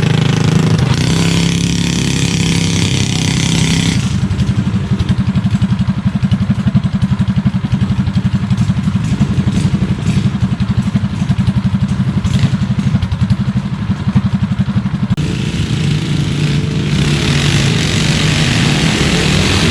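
Mini bike engine running: a higher note at first, dropping about four seconds in to a lower, pulsing run for roughly eleven seconds, then picking up again near the end.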